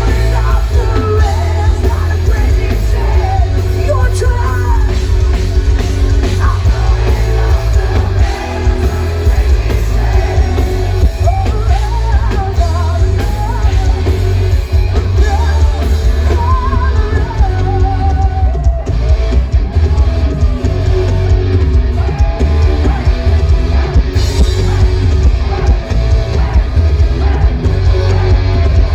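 Live hard rock band playing loud, with distorted electric guitar, bass and drum kit under a sung vocal line. The low end is very heavy and dominates the mix.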